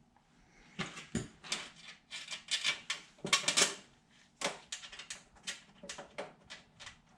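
Irregular light metal clicks and clinks from handling nuts and bolts and the hand tools working them, several a second in uneven bursts.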